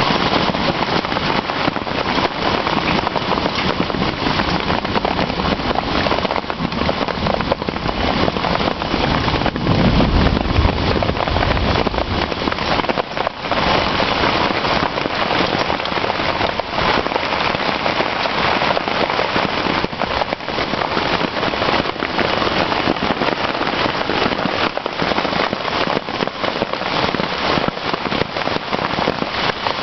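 Hailstones falling hard, a dense, continuous clatter of many small impacts, with a brief low rumble about ten seconds in.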